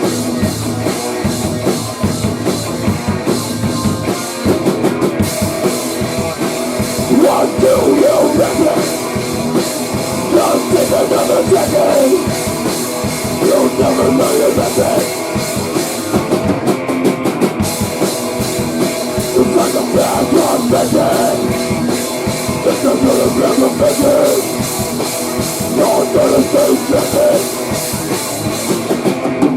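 Rock band playing loud, fast grunge/hardcore-style rock, with a busy drum kit driving a constant beat throughout.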